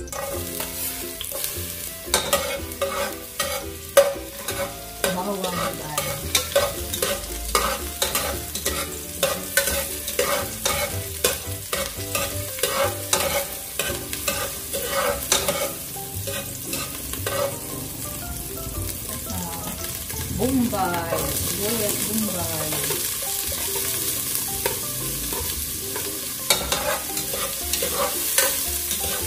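Chopped aromatics sizzling in hot cooking oil in a large aluminium pot, stirred with a long metal spatula that clicks and scrapes against the pot. The sizzle grows louder about 21 seconds in, as onion goes into the oil.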